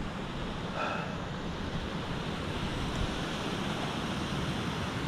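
Steady outdoor rushing noise with a low rumble, with a faint brief tone about a second in.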